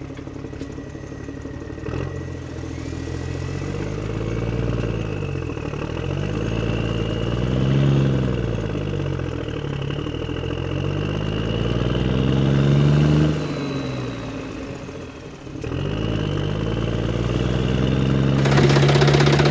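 An engine running, its pitch rising and falling several times as it revs up and eases off. It dips briefly, then picks up again and runs steadily. A rattling clatter joins in near the end.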